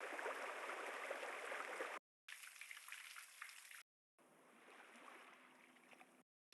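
Three short relaxation-app ambience samples of water noise, such as rain or running water, played one after another. Each lasts a second and a half to two seconds and cuts off abruptly into dead silence. The third is quieter, with a faint low hum under it.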